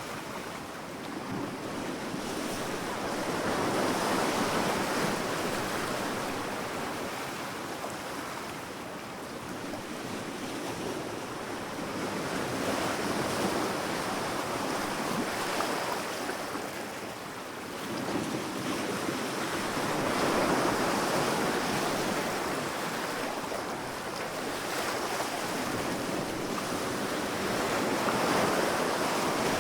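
Sea waves breaking on a sandy beach, the surf rushing and swelling, then fading in four slow surges several seconds apart.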